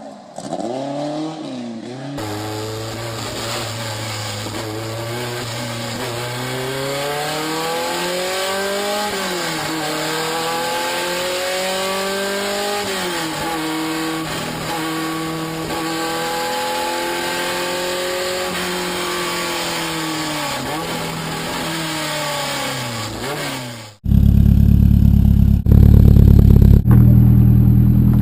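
Four-cylinder car engine accelerating hard through the gears, its pitch climbing and dropping back at each of several shifts. About 24 seconds in it cuts abruptly to a much louder, lower, steady engine drone.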